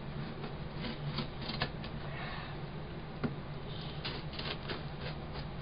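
A shipping box being slit open with a pocket knife and handled: scattered scratches, clicks and short rasps of tape and cardboard.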